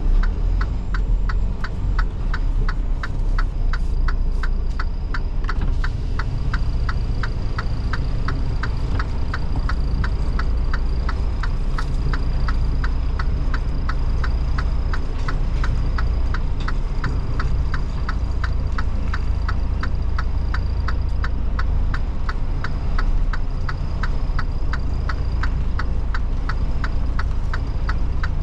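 Semi truck's diesel engine running with a low rumble in the cab, while the turn signal clicks steadily at an even rhythm of a few clicks a second.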